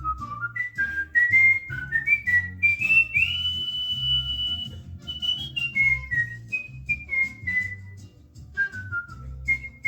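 Cockatiel whistling a tune: a run of short notes stepping upward, one long held high note about three seconds in, then notes stepping back down.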